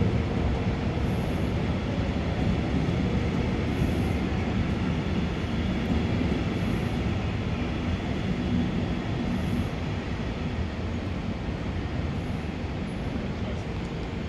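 DB Regio double-deck passenger train rolling out of the station past the camera: a steady low rumble of wheels and running gear with a faint hum. It eases off a little in the last few seconds as the last coach goes by.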